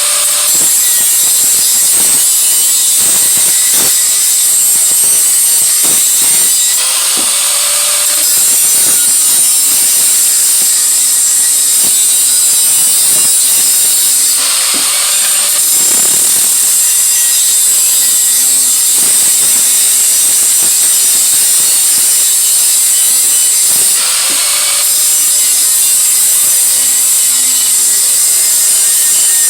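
Steel exhaust head pipe being cut or ground with a tool: a steady rasping run that briefly eases and restarts about every seven to nine seconds.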